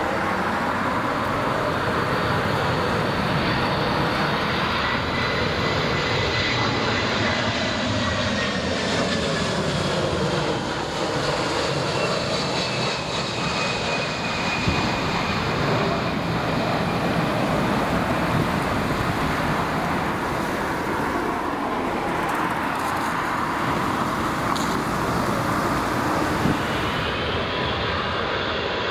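Jet airliner's engines as it passes close by: loud, steady engine noise with a whine that slowly falls in pitch.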